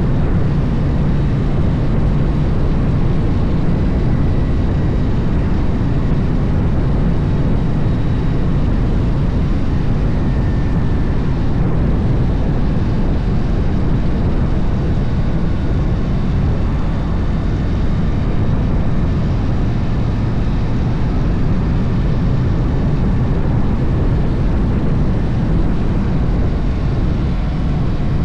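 Harley-Davidson V-twin motorcycle engine running steadily under way, mixed with a constant rush of riding wind on the microphone.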